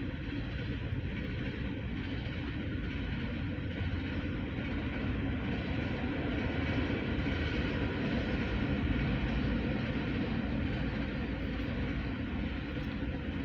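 Freight cars of a CSX mixed trash and manifest train rolling past: a steady rumble and clatter of steel wheels on the rails that swells slightly midway.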